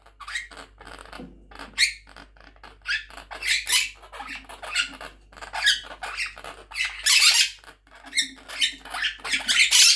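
Quaker parrot (monk parakeet) giving a rapid run of short squeaky chirps, with a few louder harsh squawks mixed in, about a third and two thirds of the way through and again near the end.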